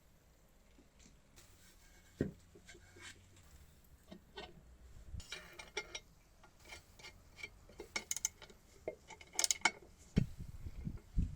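Small metal parts and hand tools clicking and clinking against each other, in irregular light taps that grow busier, with a few dull knocks near the end.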